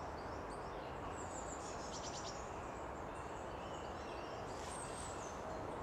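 Quiet woodland ambience: a steady hiss with a few faint, high bird chirps, about two seconds in and again near the end.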